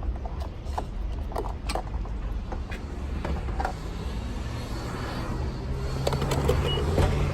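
Sounds at a gas pump while paying and starting to fuel a car: a low steady hum with scattered clicks and knocks, and one short high beep a little before the end.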